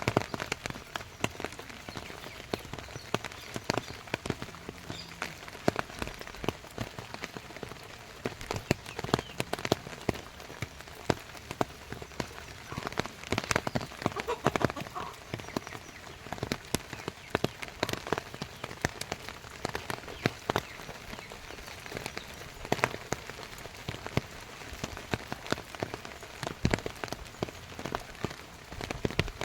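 Rain falling, with dense, irregular sharp drops and splashes over a steady patter.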